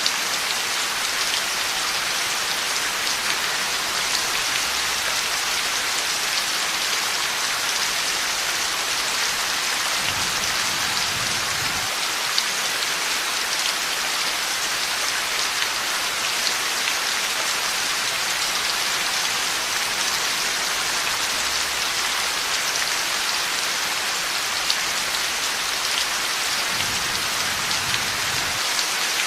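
Heavy rain falling steadily, a dense even hiss with scattered drop ticks. A faint low rumble comes in twice, about ten seconds in and near the end.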